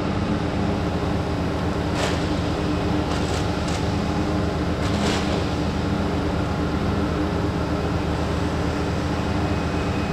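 Steady low mechanical hum with a few short scrapes of a plastic spreader working polyester body filler, about two, three to four, and five seconds in.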